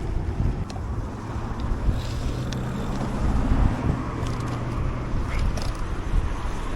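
Wind rushing over the microphone of a camera on a moving road bike, as a low rumbling noise, with a low steady hum for a few seconds in the middle.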